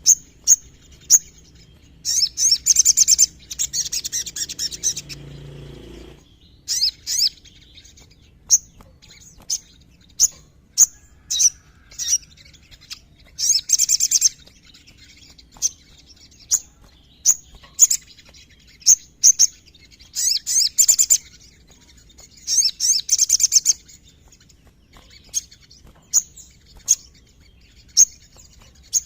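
Sogon sunbird singing: sharp, high chirps about once a second, broken four or five times by fast rattling trills lasting a second or two.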